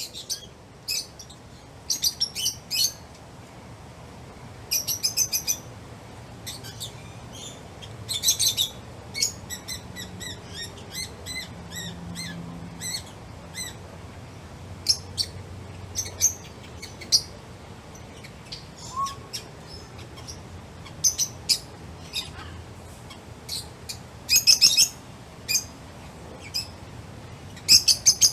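Pet lovebirds chirping, short high-pitched chirps coming in quick clusters every second or two.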